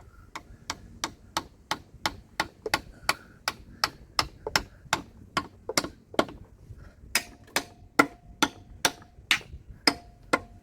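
A hammer striking metal steadily, about three blows a second, with a metallic ring on the blows in the second half. It is being used to free a stuck part.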